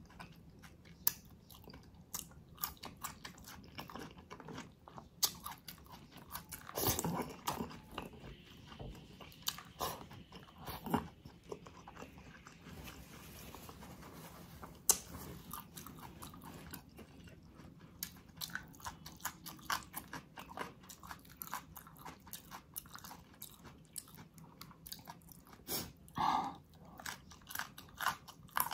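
Close-miked eating of soft, sticky spicy ox feet and noodles: wet chewing and lip smacks in a steady run of small clicks, with a few louder mouthfuls along the way.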